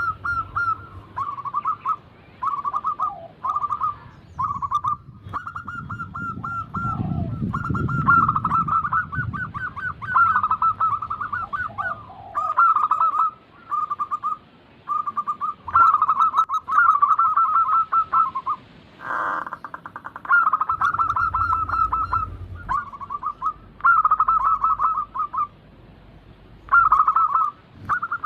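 Zebra doves (perkutut) cooing: repeated bouts of rapid, trilled coo notes, one bout after another with short gaps, with a short noisy burst about two-thirds through.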